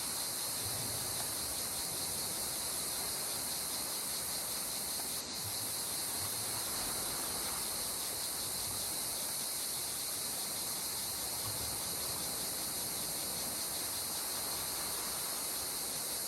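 Steady chorus of insects, a shrill, finely pulsing high drone, over a soft hiss of gentle sea water.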